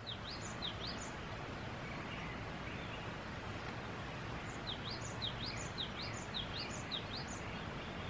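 A bird chirping in two runs of quick, sharp, high notes, the second run about five seconds in, over a steady, even hiss of outdoor background noise.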